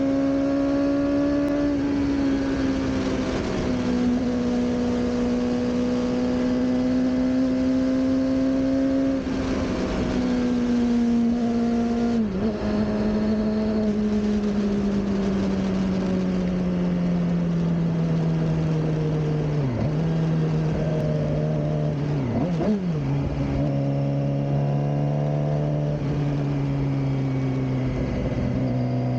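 Suzuki GSX-R600 inline-four engine running under way, its note slowly falling in pitch, broken briefly three times late on. Steady wind and road noise lie underneath.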